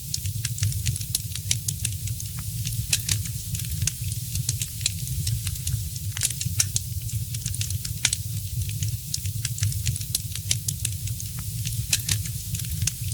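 Fire in a fireplace crackling: frequent short, sharp pops and snaps at irregular intervals over a steady low rumble and a light hiss.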